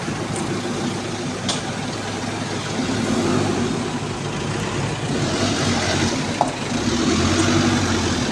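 Truck engine running steadily, its level swelling a little twice.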